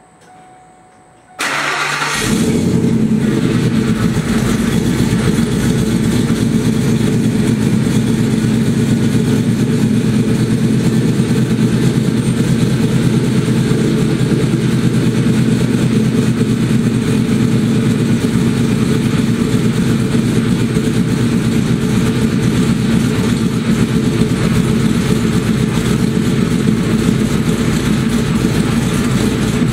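A truck's newly installed engine cranks briefly and catches about a second and a half in, then settles into a loud, steady idle.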